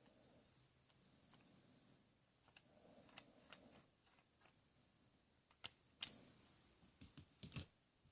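Near silence with a few faint clicks and light knocks of small objects being handled, the sharpest click about six seconds in and a short run of knocks near the end.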